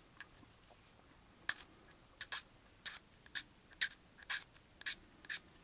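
Sandpaper rubbed in short strokes over a small plastic model-kit part, a faint dry rasp about twice a second starting a second and a half in, smoothing off molding flash.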